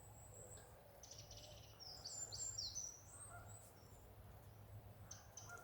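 A faint small bird singing high, thin chirps, with a quick run of notes and short downward slurs about two seconds in.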